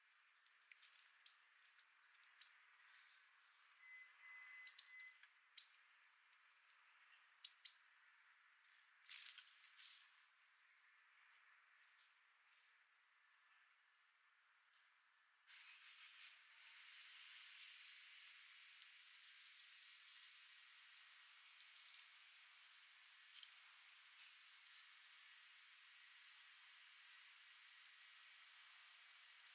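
A flock of bushtits giving faint, high, thin chirps and twitters, with scattered sharp clicks among them. About halfway through, a steady faint hiss comes in under the calls.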